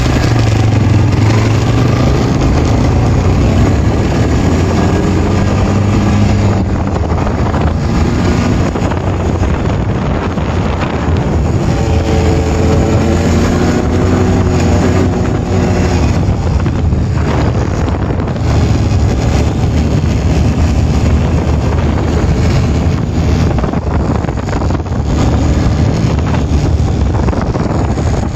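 Honda Recon 250 ATV's single-cylinder four-stroke engine running under way on pavement, its pitch rising and falling with the throttle, with wind buffeting the microphone.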